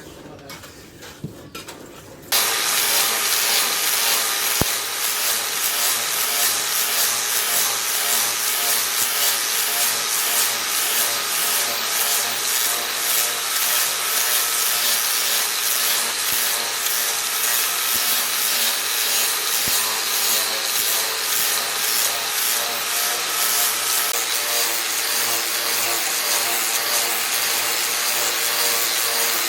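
A power grinding tool running steadily against the work. It starts abruptly about two seconds in, after a few faint clinks.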